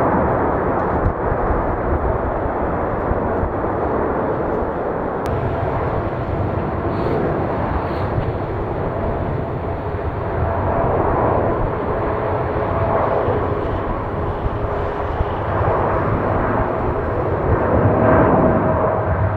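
Jet airliner engines, a steady loud rushing noise, with faint whining tones that shift a little in pitch in the second half.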